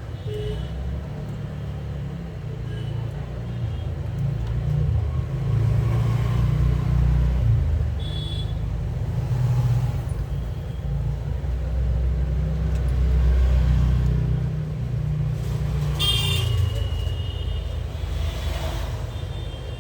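Uneven low rumble of background noise, with a few brief high-pitched tones, the clearest about sixteen seconds in and again near the end.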